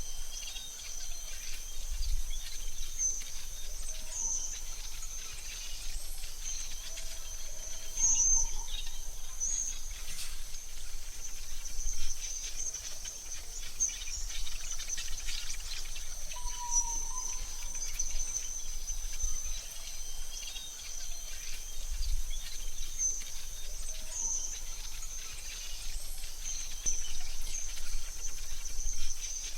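Forest ambience: a steady high insect trill like crickets, with scattered short bird chirps and a soft low rumble that swells a few times.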